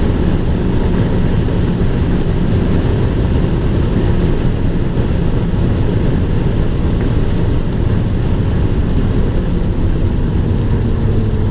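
Abarth 595 Turismo's 1.4-litre turbocharged four-cylinder engine running at speed, heard from inside the cabin together with steady road and tyre noise on a wet track. It is a loud, even drone, and the engine note falls slightly near the end.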